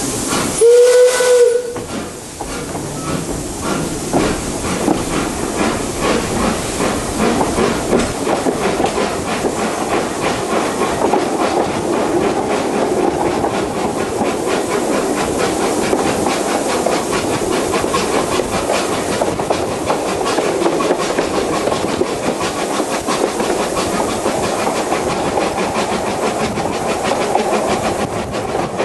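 Steam whistle of a narrow-gauge steam tank locomotive, one blast of about a second near the start. Then the engine's exhaust beats and the train's running noise on the rails, the beats quickening as the train picks up speed.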